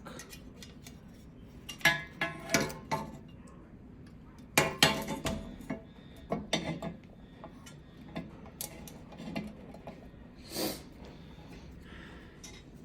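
Metal parts and tools clinking and clattering as they are handled and set down, in several short clusters with a single knock near the end.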